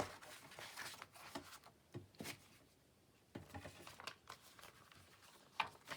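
Paper crinkling and crackling in short irregular crackles as the edges of a journal page are crunched up by hand, with a short lull a little before halfway through.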